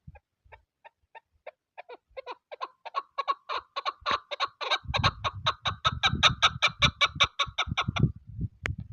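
Chukar partridge calling a long series of short clucking notes that start slow and sparse, then quicken and grow louder before stopping about eight seconds in. Wind buffets the microphone in low rumbles through the second half.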